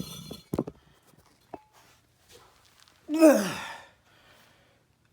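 A few short knocks and clicks of work on the car, then about three seconds in a loud vocal sound, likely a man's voice, that falls steeply in pitch like a sigh or groan.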